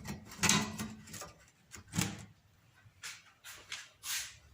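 Steel pieces being handled: a steel square and angle-iron grill frame set down and moved against each other, in a few separate scraping knocks.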